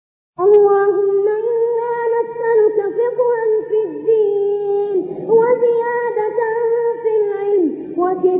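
A single high voice chanting an Arabic supplication (du'a) in long, held, melismatic phrases, starting about half a second in after a brief silence, with a short breath pause about five seconds in.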